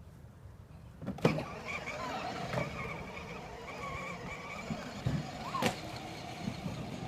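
Steady low hum of a truck, broken by two sharp knocks, one about a second in and another later on.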